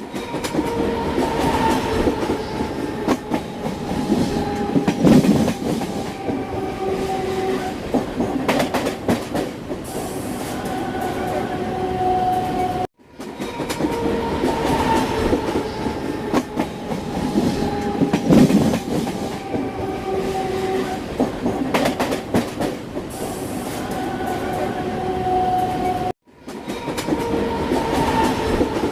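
Train running on the rails, wheels clattering over rail joints, with two steady tones that slowly fall in pitch. The same stretch of about 13 seconds plays twice, broken by short silent cuts.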